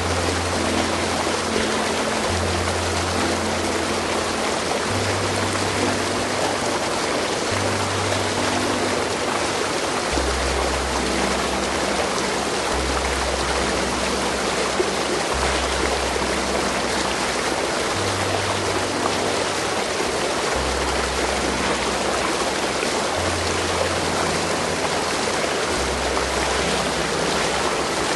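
Flowing stream water, a steady rushing hiss, over soft background music of low held notes that change every two to three seconds.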